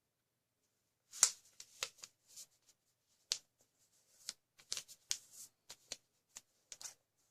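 A square sheet of origami paper being folded by hand: a string of irregular, crisp paper rustles and crackles, the sharpest about a second in.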